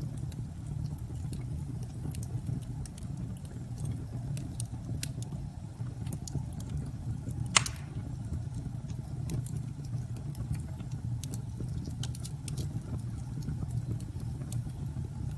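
Wood fire crackling with scattered sharp pops and one louder crack about halfway through, over a steady low rumble of storm wind.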